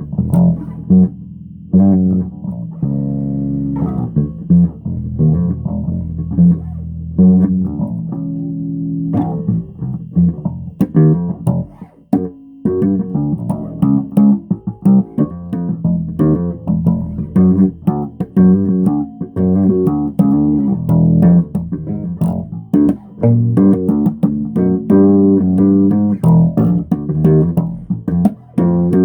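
Bass guitar played solo, plucking a continuous bass line. It has a few held, ringing notes in the first several seconds, then a busier run of quick, sharply attacked notes.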